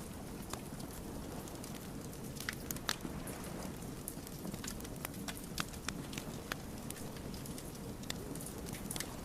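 Wood campfire burning: a steady low rumble of flames with irregular sharp crackles and pops from the burning logs.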